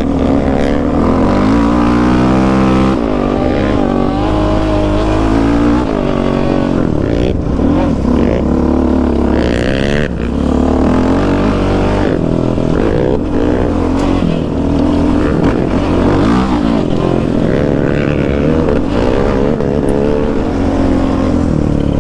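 Yamaha Raptor 700 sport quad's single-cylinder engine running hard on a trail ride, its pitch climbing and falling over and over as the throttle is opened and closed. There is a brief lift off about ten seconds in.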